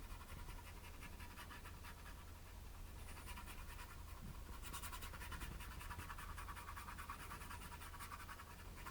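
Paintbrush scrubbing acrylic paint onto canvas: fast, rhythmic scratchy strokes that grow busier and louder about halfway through.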